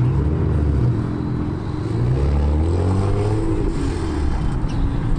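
Car engine running close by, its pitch rising about halfway through as it accelerates.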